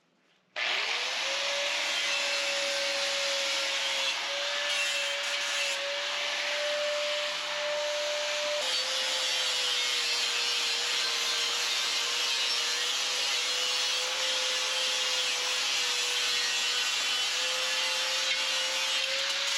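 Angle grinder with a sanding flap wheel starting up about half a second in, then running steadily with a constant motor whine over a harsh hiss as it sands light surface rust off a steel plate.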